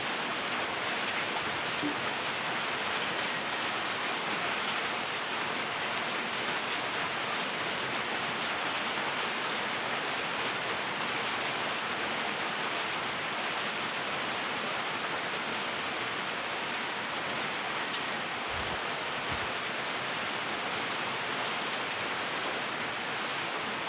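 Light rain falling steadily, an even hiss with no let-up.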